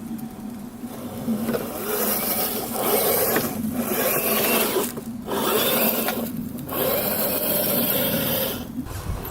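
RC scale crawler (Hilux body) driving over forest floor: its tyres crunch and rub over leaves and twigs in several stop-start stretches, with a steady drivetrain whine underneath.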